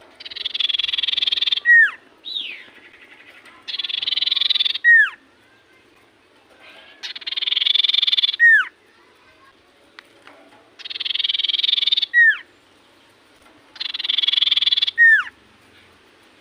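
Common iora (cipoh) singing its 'sirtu' song. It gives five repeated phrases, each a buzzy trill of about a second and a half ending in a loud, sharply falling whistle.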